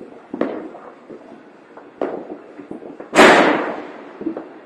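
Fireworks going off: two sharp bangs in the first two seconds, then a much louder bang a little past three seconds that echoes away over about a second.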